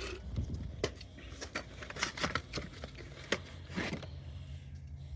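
A new oil filter and its cardboard box being handled and opened: irregular rustling and sharp clicks. A faint steady low hum comes in near the end.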